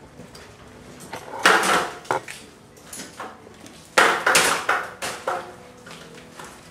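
Metallic clattering and knocking from metal hardware being handled, with two loud rattling bursts about one and a half and four seconds in and smaller knocks between.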